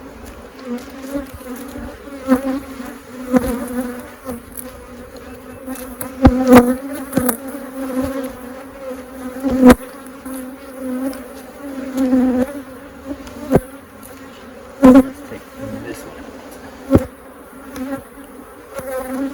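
Honeybees buzzing steadily around an open hive, swelling and fading as individual bees fly close. Several sharp knocks break through as wooden frames are pried loose and moved.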